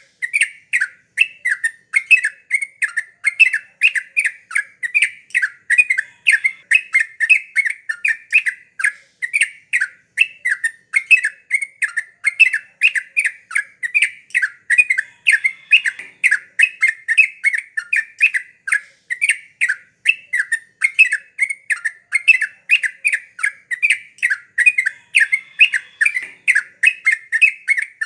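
Yellow-vented bulbul (trucuk) calling without a break: a fast, steady run of short chattering notes, several a second.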